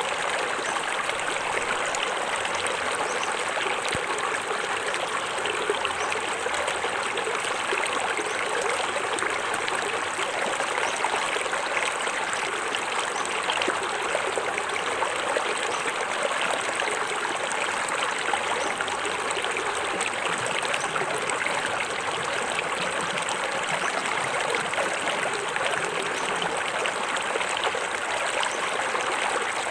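Small forest waterfall: water spilling and splashing over rocks into a stream, a steady, even rush with fine trickling detail.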